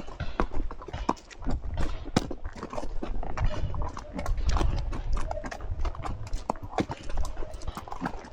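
Horse hooves clip-clopping as the horse walks along the trail, in a run of irregular knocks, over a low rumble that swells about halfway through.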